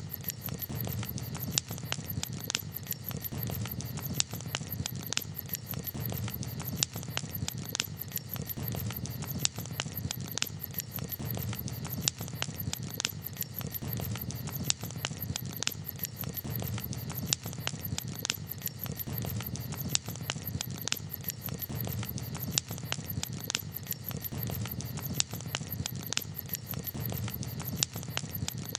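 Campfire crackling: frequent, irregular sharp pops and snaps over a low, steady rumble of the flames.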